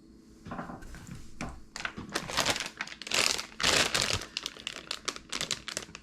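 Plastic Cheetos snack bag crinkling as it is handled, a dense run of crackles that is loudest a couple of seconds in.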